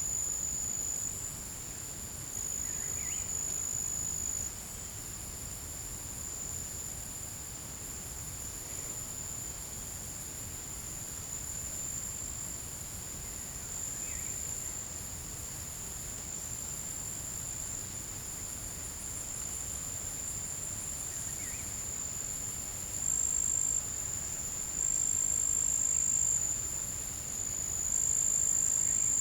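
Forest insect chorus: a steady, high-pitched shrilling that swells louder in several stretches near the end. A few faint short calls sound through it now and then.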